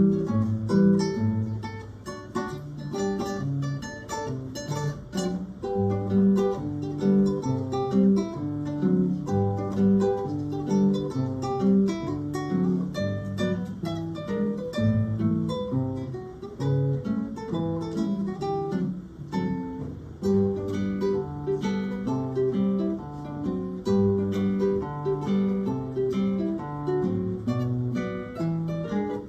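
A trio of acoustic guitars playing an instrumental piece: a plucked melody over picked chords and bass notes.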